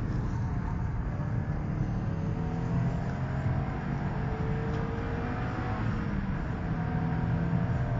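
Subaru Impreza's flat-four engine under way, heard from inside the cabin, its pitch rising and falling with the revs, over steady road and tyre noise.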